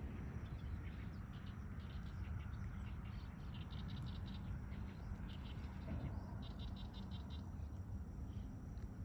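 Birds chirping in short, quickly repeated notes over a steady low rumble.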